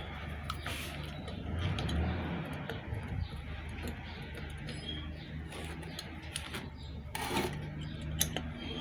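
Light metallic clinks and ticks of hand tools working the bolts of a centrifugal water pump's end cover as it is tightened down a little at a time, over a low steady hum.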